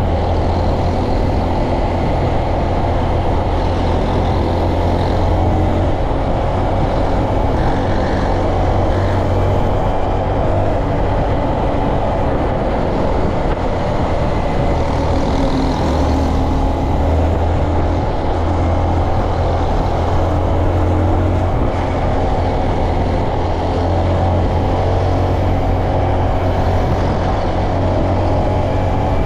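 Honda Monkey 125's single-cylinder four-stroke engine running steadily while riding, a strong low hum under a constant rush of noise.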